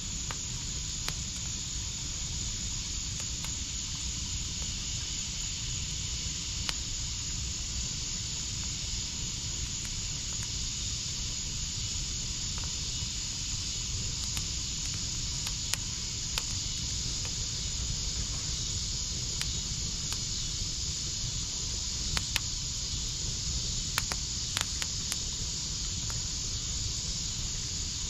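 Wood fire in a backyard fire pit crackling, with scattered sharp pops over a steady hiss; a cluster of louder pops comes about three quarters of the way through.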